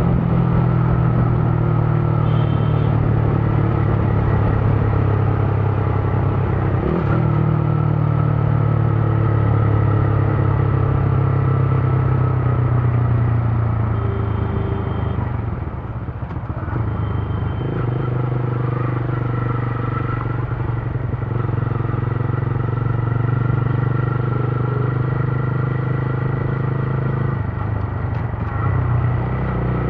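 Motorcycle engine running steadily under way, heard from the rider's seat. About halfway through the engine note falls off and goes quieter for a moment, then picks up again and holds steady.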